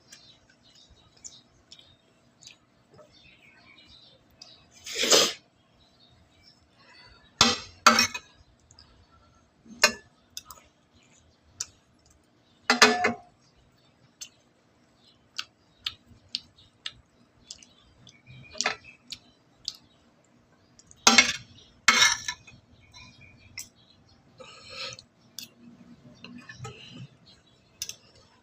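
Eating utensils clinking and tapping against dishes during a meal: scattered light clinks with a handful of louder knocks, over a faint steady hum.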